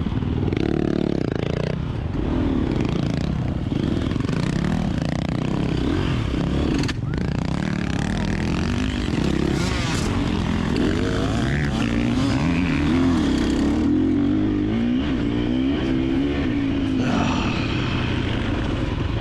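KTM 350XC-F four-stroke dirt bike engine running and revving, its pitch rising and falling repeatedly, with a brief drop about seven seconds in.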